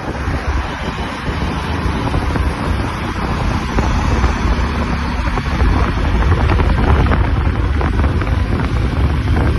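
Wind rushing over the microphone of a moving motorbike, with a heavy low rumble of road and engine noise beneath, slowly growing louder.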